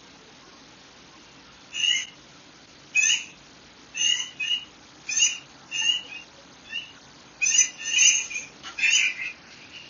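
Songbird calls: short, bright chirping notes repeated roughly once a second, beginning about two seconds in and crowding closer together near the end.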